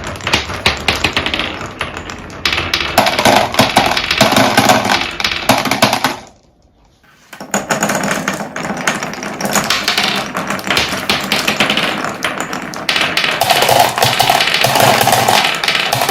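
Marbles rolling and clattering through a wooden Cuboro marble run, a dense rapid clicking and rattling. It breaks off into a brief quiet about six and a half seconds in, then starts again.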